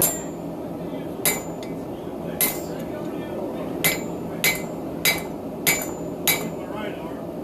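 Hand hammer striking hot steel on a Hay Budden anvil, eight ringing blows: three spaced out, then five in an even rhythm about 0.6 s apart.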